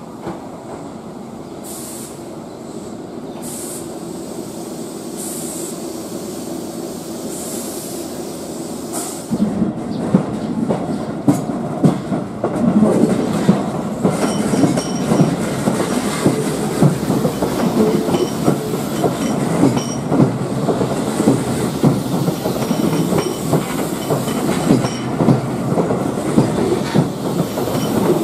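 Keihan electric commuter train moving along the platform: a slowly building rumble, then from about nine seconds in a louder, steady clatter of wheels over rail joints with some wheel squeal.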